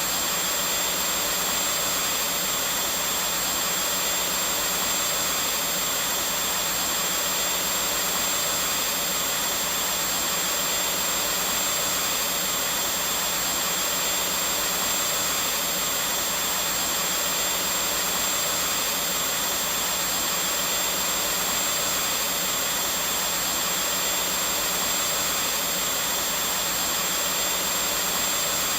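Vacuum cleaner running steadily: an even, unchanging rush of motor and airflow noise with a faint high whine.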